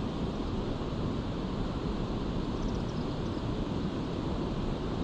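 Steady rushing noise of a fast-flowing river current, with wind buffeting the microphone.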